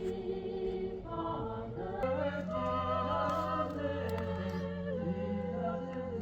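Unaccompanied choir singing slow, long-held chords in harmony, moving to a fuller, lower chord about two seconds in.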